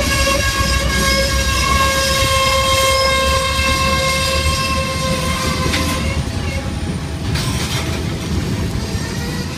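Freight train cars rolling slowly with a loud, steady, high-pitched wheel screech over a low rolling rumble. The screech weakens a little past halfway.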